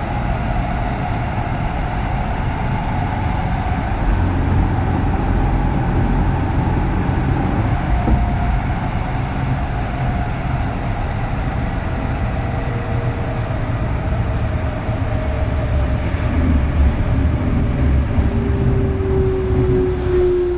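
Kintetsu 3200 series electric train heard from inside motor car Mo 3205: a steady low running rumble with the whine of its early Mitsubishi GTO VVVF inverter and traction motors. In the last third, a clear motor tone slides steadily down in pitch.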